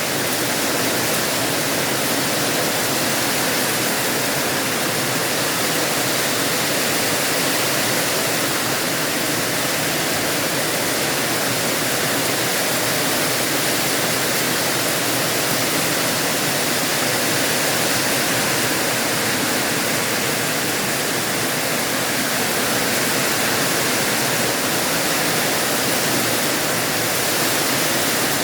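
Heavy rain pouring down, a steady dense rush with no let-up.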